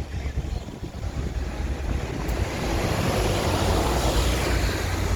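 Steady street noise: road traffic running past, swelling as a vehicle goes by in the middle, with wind rumbling on the microphone.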